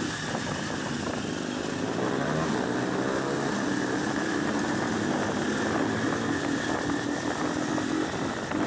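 Motorcycle engine running steadily under the rider, a Honda CB300 single, with a noisy rush over it.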